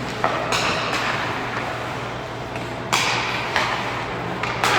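Ice hockey play in a rink: about five sharp clacks and knocks of sticks, puck and boards, some followed by a brief scraping hiss, over a steady low arena hum.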